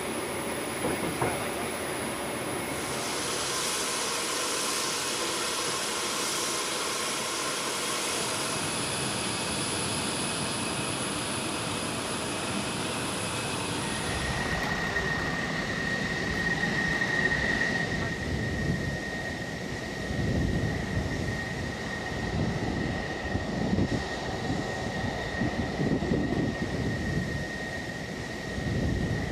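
Aircraft engines running: a steady rushing noise with a thin high whine for about the first half. After a change about halfway through, a steady whistle sits over an uneven, surging rumble.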